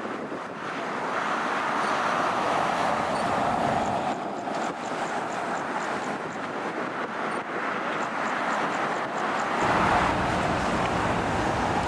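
Steady outdoor engine roar of passing road traffic and airport jets, swelling twice, with a deep low rumble coming in suddenly about ten seconds in.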